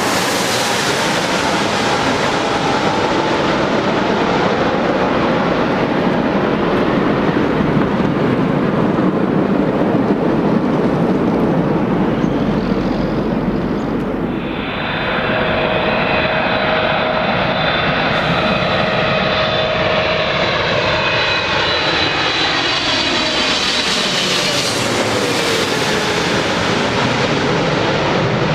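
Jet airliner engines passing close on landing approach: a steady broad roar, then about halfway a jet's whine of several tones that slides down in pitch as it goes past.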